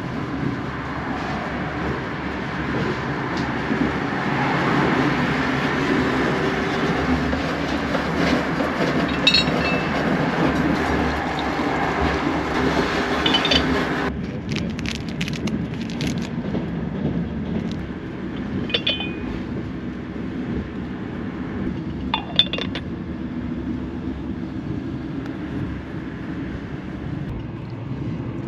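Steady running rumble of a sleeper train carriage in motion, with several light ringing clinks of porcelain from a teapot being handled. The rumble drops abruptly about halfway through.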